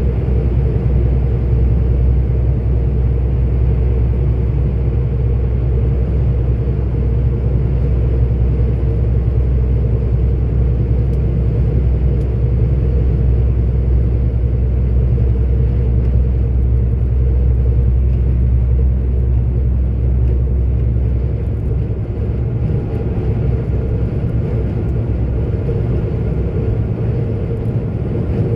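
Steady drone of a 44-ton articulated lorry's diesel engine with road noise, heard from inside the cab while driving. The low drone eases slightly about three-quarters of the way through.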